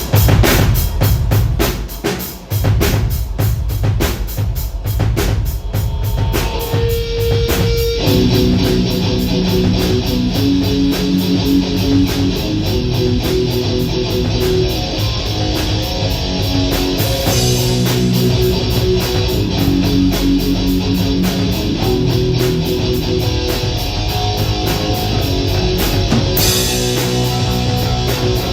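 Rock band starting a song: drums play alone at first, a single held note comes in, and about eight seconds in guitars and the full band join and play on steadily.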